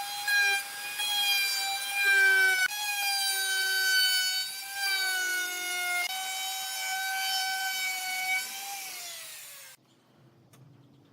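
High-speed electric woodworking power tool running while cutting wood: a steady high whine whose pitch sags a little each time it takes load. Near the end the pitch drops briefly, then the sound cuts off abruptly, leaving faint quiet sounds.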